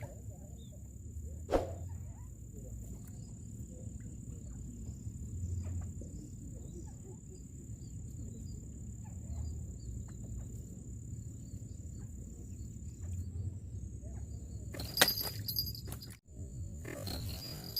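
Outdoor ambience: a steady high-pitched insect drone over a low rumble, with a sharp knock about a second and a half in and some clatter near the end.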